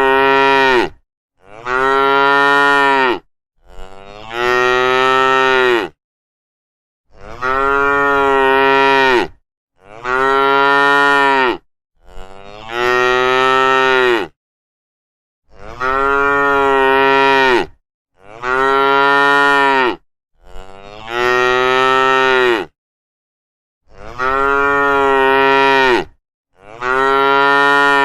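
Cows mooing: a run of about eleven long moos of roughly two seconds each, one after another with short silent gaps between them, each holding a steady pitch and dropping at the end.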